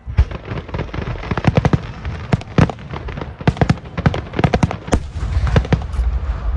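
Aerial fireworks shells bursting: a sudden start, then many sharp bangs in quick, irregular succession over a continuous low rumble.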